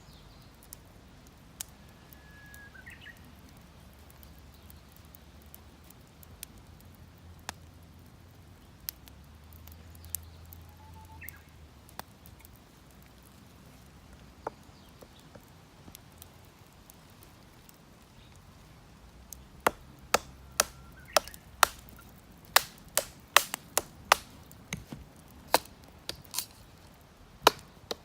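Campfire of damp, poorly seasoned firewood crackling: sharp single pops every few seconds, then a fast run of loud cracks over the last third.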